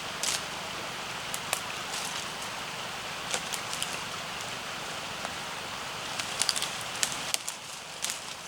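Small wood fire crackling in a compact fire-pit stove: a steady hiss with scattered sharp pops and snaps, which come more often late on as the hiss thins.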